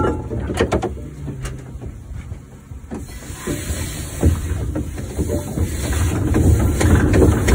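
1914 Fowler showman's steam engine running: a low rumble with irregular clanks and knocks, a hiss of steam from about three seconds in, growing louder near the end.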